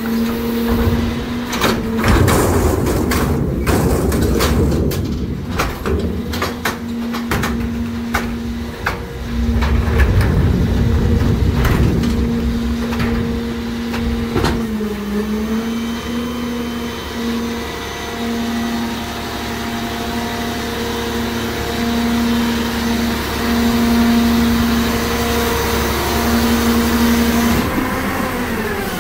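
New Way rear loader garbage truck working its packer: a steady drone from the engine and hydraulics held at raised revs, with repeated bangs and crunching of heavy trash being loaded and compacted over the first half. Near the end the drone drops in pitch and fades as the revs come down.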